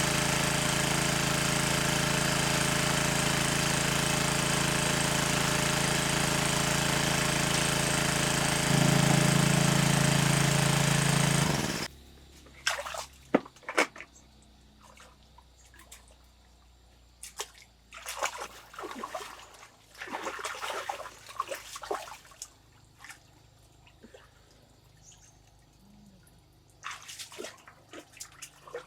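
A small engine runs steadily, gets louder about nine seconds in, then stops abruptly about twelve seconds in. Afterwards there are scattered splashes and sloshing of water.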